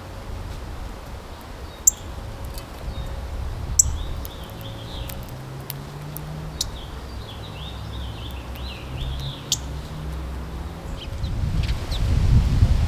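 Small backyard songbirds chirping: a few sharp single chips and a run of quick twittering chirps in the middle, over a steady low outdoor rumble that grows louder near the end.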